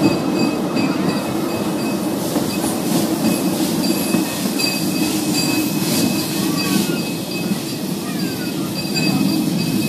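Miniature steam train's passenger cars running along the track: a steady rumble of wheels and cars, with a faint, thin, steady high whine above it.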